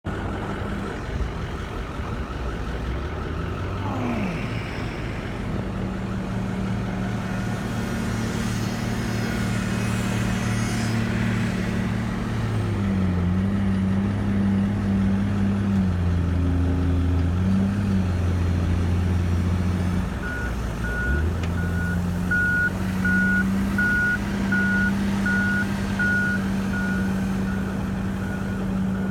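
Heavy diesel engines of a dump truck and its loader running steadily, their pitch rising and falling in the middle as the machines work. About two-thirds of the way in, a reversing alarm starts beeping steadily, about one and a half beeps a second.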